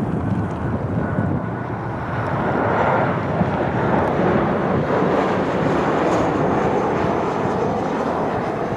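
Boeing 737-800 airliner's CFM56 jet engines running as it comes in on approach: a steady rush of jet noise with a faint whine over it.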